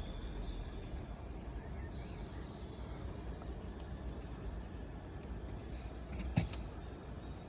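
Steady low outdoor background rumble, with a faint high chirp about a second in and a single sharp knock about six and a half seconds in.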